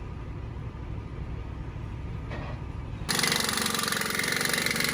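A diesel truck engine idling with a low, steady rumble. About three seconds in, a sudden, much louder, rapid mechanical buzzing rattle takes over.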